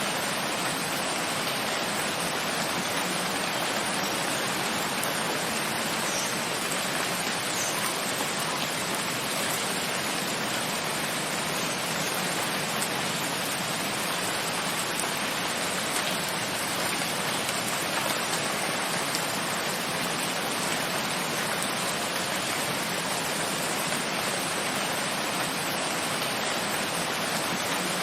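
Steady, even rainfall, a dense hiss of rain with a few faint individual drop ticks.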